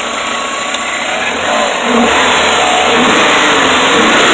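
1988 Porsche 944's four-cylinder engine running in its first minutes after sitting about ten years. The revs rise and waver from about two seconds in, and it runs louder from there.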